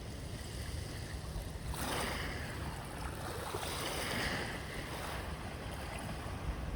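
Sea waves washing in, with a hissing swell of surf about two seconds in and a longer one around four seconds, over a steady low rumble of wind on the microphone.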